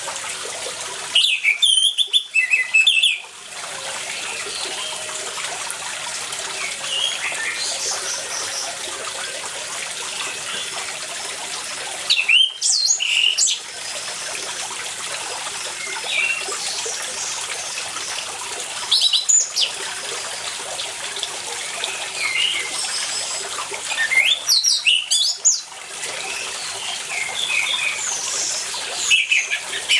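Orange-headed thrush singing in loud bursts of quick, varied phrases, five times, over a steady background of running water with fainter bird notes.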